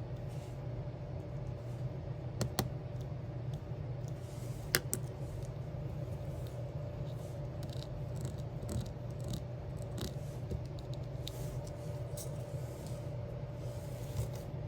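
Scattered small clicks and taps from diamond painting, resin drills being picked up and pressed onto a sticker sheet, over a steady low hum.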